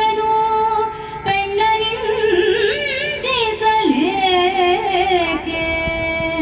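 A woman singing a slow Carnatic-style melody in long, held notes with wavering ornaments, over a steady instrumental accompaniment.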